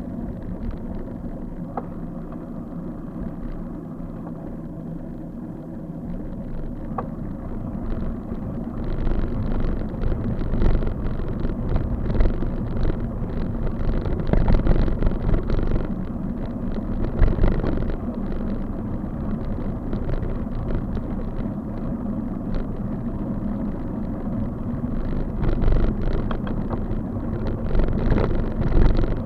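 Riding noise from a moving bike: steady road rumble and wind on the microphone. From about eight seconds in it turns rougher, with frequent knocks and rattles as if over a bumpy surface.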